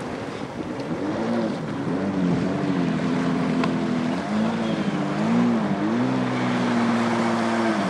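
Engine of a small motorized watercraft running out on the water. Its pitch dips and rises several times as the throttle changes, then holds steady near the end.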